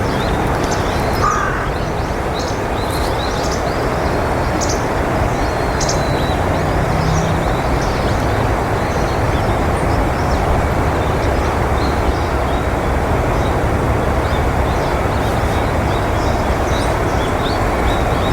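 Steady low background rumble with many short, high bird chirps scattered throughout, and one lower call about a second in.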